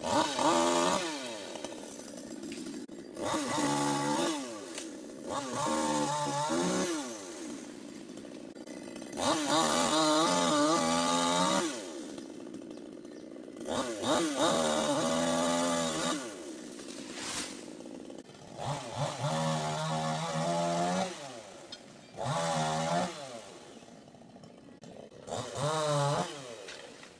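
Two-stroke chainsaw revved in about ten bursts of one to two seconds each. The engine pitch wavers during each burst and drops back to a lower, quieter running note in between.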